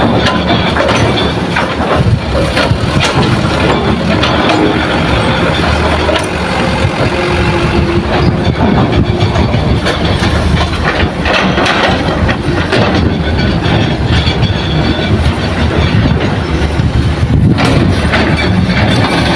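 Hitachi hydraulic excavator working: its diesel engine running steadily under load, with rattling, clanking metal throughout as it digs and loads soil.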